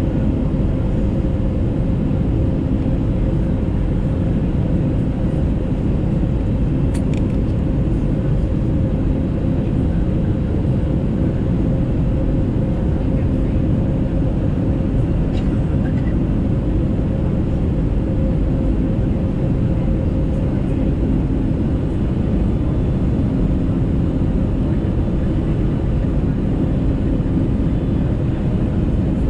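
Steady cabin noise inside an Airbus A320neo on the ground just after landing: a continuous rush of engine and airflow noise with a steady low hum.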